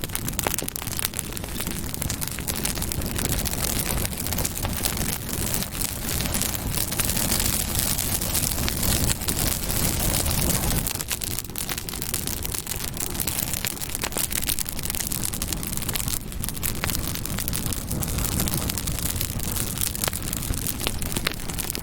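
Campfire burning: a steady rush of flame with dense small crackles and pops throughout.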